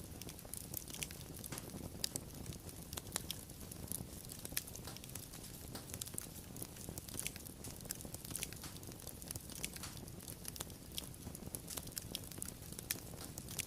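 Wood fire crackling: frequent sharp, irregular pops and snaps over a low steady rumble of flames.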